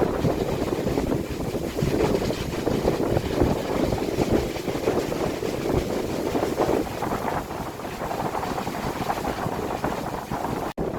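Strong gusty wind buffeting the microphone: a dense, rumbling rush of noise that swells and eases with the gusts, cutting out for an instant near the end.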